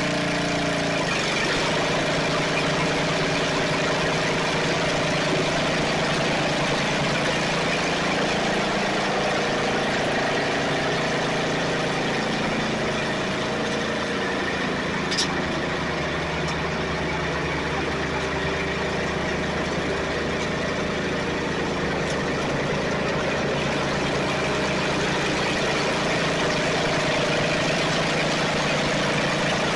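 Snapper riding mower's engine running steadily, with one sharp click about halfway through.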